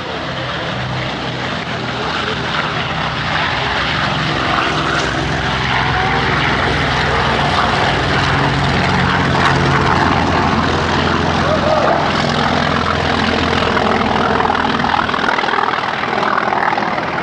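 Piston-engined propeller aircraft's engine at high power on takeoff, a steady drone that grows louder over the first several seconds, then holds steady.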